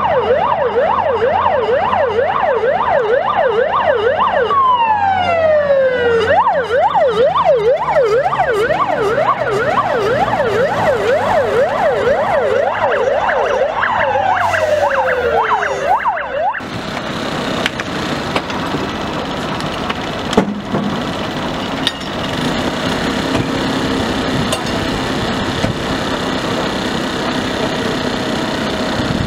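Emergency vehicle siren in a fast yelp, sweeping up and down about three times a second, with a second siren winding down in pitch twice. About two-thirds of the way in it cuts off suddenly and a steady engine-like running noise takes over.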